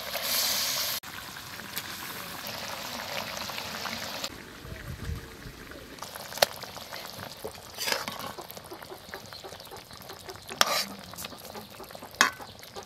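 Fried brinjal halves going into hot masala gravy in a metal kadai: a loud sizzle for about a second, then steady hissing and bubbling. In the second half, a few sharp clicks and scrapes of a spatula against the pan.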